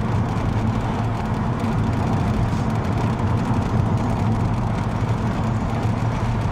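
Steady engine and road noise of a car driving along, heard from inside the cabin.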